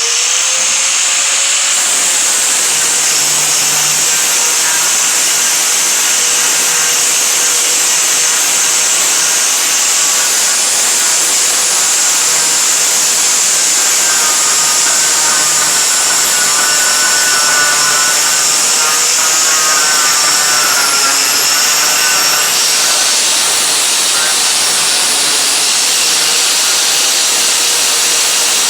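Electric grinder running without a break against a rusty steel truck bed, grinding off the rust: a loud, steady, hissing scrape.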